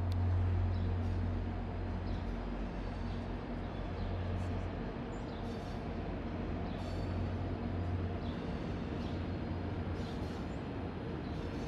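REM light-metro test train, an electric Alstom Metropolis trainset, running along the elevated track as a steady low rumble.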